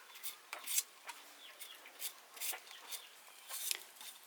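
Chickens clucking close by, in short scattered calls mixed with light clicks.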